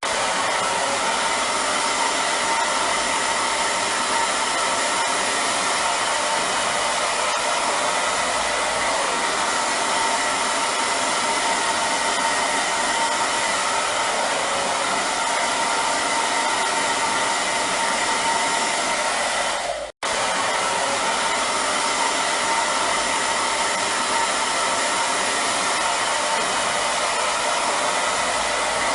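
Hair dryer running steadily: an even rushing blow of air with a faint steady whine. It drops out for a split second about twenty seconds in, then carries on unchanged.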